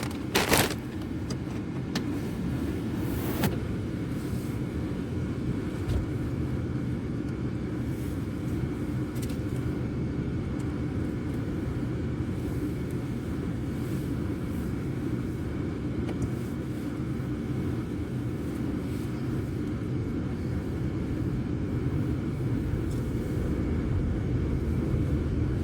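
Steady engine and road rumble of a car being driven, heard from inside the cabin, with a few short knocks in the first few seconds.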